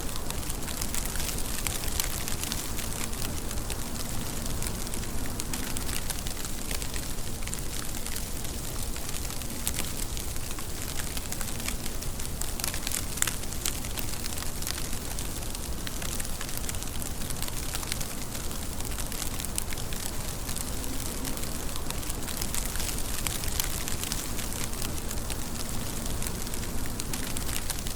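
Steady rain: a dense, even hiss with many small drop ticks on top.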